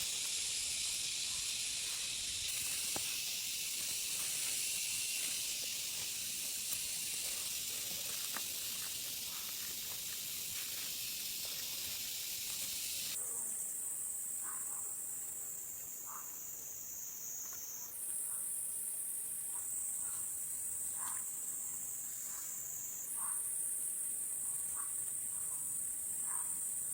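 A dense, steady high-pitched insect chorus. The sound narrows and shifts abruptly several times about halfway through and after. In the second half, faint short chirps repeat every second or two.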